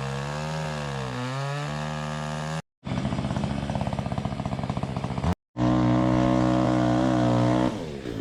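An engine running in three abruptly cut fragments, its pitch wavering in the first, with a fast pulsing in the second, and dropping away near the end.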